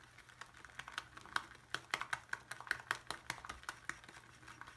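Shaving brush whipping shaving soap into lather in a bowl: quick, irregular wet clicking and squishing strokes that pick up after about a second.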